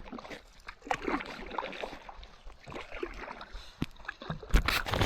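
Water splashing and dripping around a kayak as it is paddled, with a few sharp knocks and splashes near the end.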